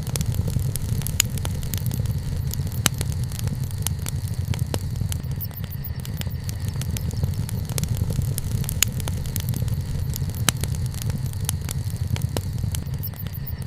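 Wood campfire burning: frequent sharp crackles and pops scattered irregularly over a steady low rumble.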